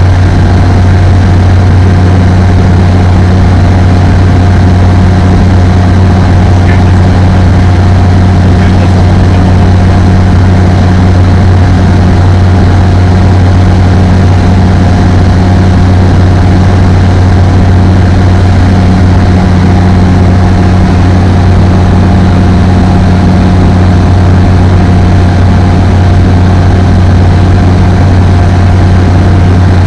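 Apollo Fox ultralight aircraft's engine and propeller droning steadily at constant power, loud and unchanging, with a deep hum and a fainter steady higher tone.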